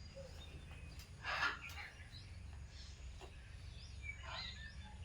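Faint bird calls: one short harsh call about a second and a half in, then a few soft, quick chirps, over a low steady hum.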